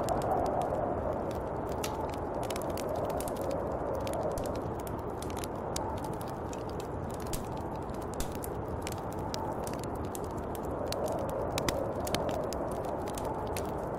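Snowstorm wind blowing steadily, swelling and easing in gusts every few seconds, with scattered small crackling ticks throughout.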